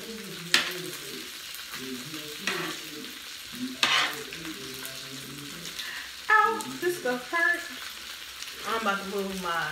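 Food sizzling and frying in oil on an electric griddle while a metal fork pushes and scrapes it around, with a few sharp clicks of the fork on the plate. Twice in the second half there are brief wordless vocal sounds.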